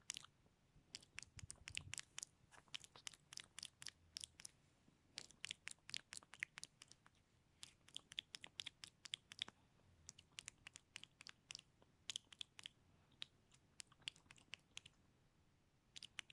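Close-miked ASMR mouth sounds: sharp, quick clicks and smacks of tongue and lips in rapid clusters, broken by short pauses, with a longer pause near the end.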